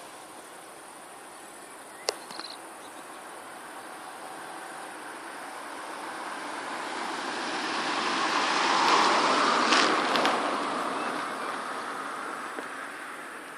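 Home-built RC model Mustang airplane flying past: the buzz of its motor and propeller swells over several seconds, is loudest about two-thirds of the way through, then fades away. A single sharp click comes about two seconds in.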